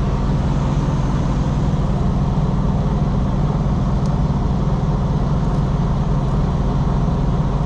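Steady low hum of a diesel engine idling, even and unchanging throughout.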